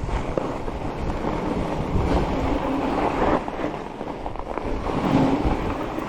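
Fat bike's wide tyres rolling fast over hard-packed groomed snow, with wind rushing over the microphone.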